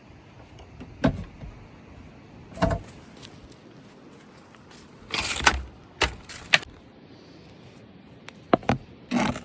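Irregular sharp knocks and clatters, about eight of them, the longest a rattling clatter about halfway through, over a faint steady background hiss.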